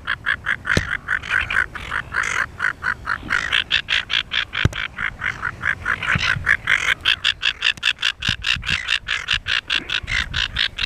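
Silver gull calling during copulation: a fast, unbroken run of short, harsh calls, about five a second.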